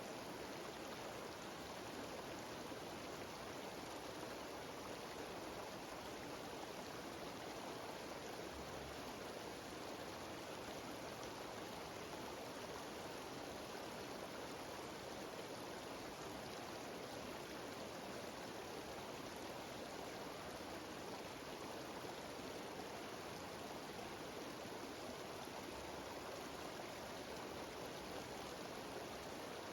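Mountain waterfall cascading steadily: an even, unbroken rush of water.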